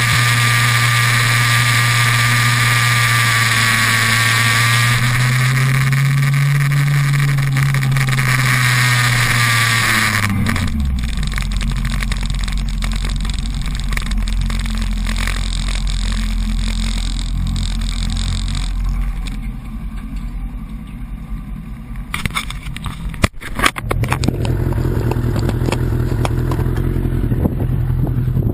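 Suzuki Bandit 1200's inline-four engine running at steady throttle under a loud rushing hiss. About ten seconds in, its pitch falls steeply to a low idle. A few sharp knocks come near the end of the idle, then the engine revs up again.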